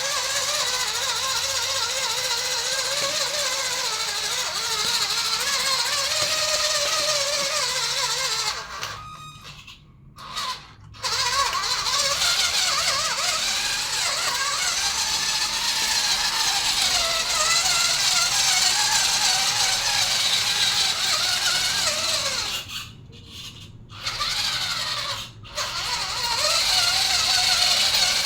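Electric motor and gearbox of a Fayee 6x6 radio-control truck whining, the pitch wavering up and down with the throttle. It stops twice for a second or two and once very briefly, then picks up again.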